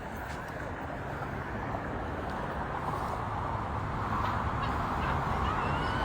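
Street traffic: a vehicle's engine and tyres growing steadily louder as it approaches.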